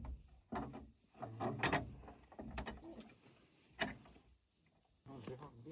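Crickets chirping steadily, with four or five scattered knocks and clatters over them.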